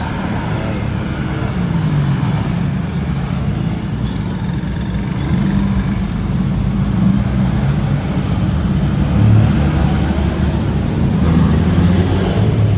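Car engines running: a steady, low rumble with wavering pitch.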